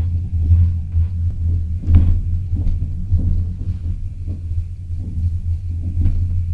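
Train running on its rails, heard from on board: a steady low rumble with irregular knocks and clacks, the loudest about two seconds in.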